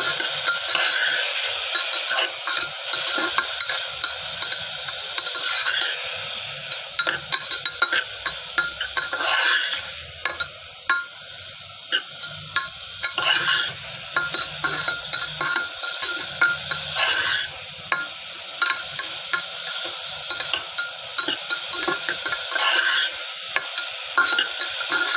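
Chopped vegetables sizzling in a hot pot of fried onion and spices while a perforated metal spoon stirs them, scraping and clinking against the pot many times.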